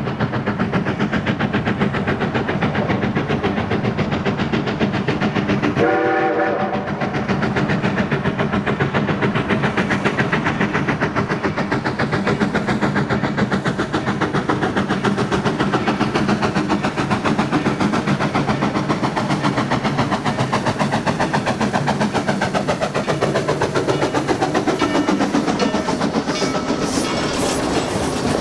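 Narrow-gauge steam locomotive working steadily, its exhaust beating fast and even. One short whistle blast sounds about six seconds in, and a sharper metallic clatter joins near the end.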